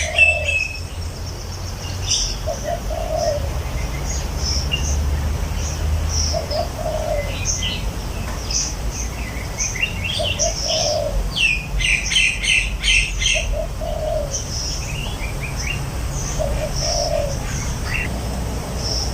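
Birdsong: a low, cooing dove-like call repeats as a short phrase every few seconds, under many high chirps and twitters from other birds that crowd into a quick run of notes about twelve seconds in.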